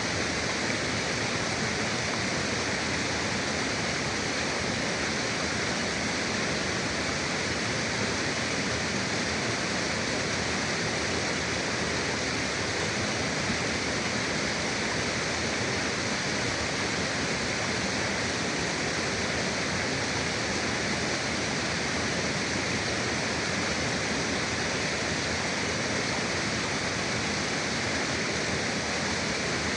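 River water flowing: a steady, unbroken rush of water with no distinct splashes or breaks.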